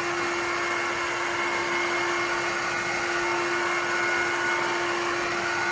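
Shark HydroVac MessMaster cordless wet-dry vacuum mop running steadily: a constant motor hum over the rush of suction as it picks up a dog's sick from the floor.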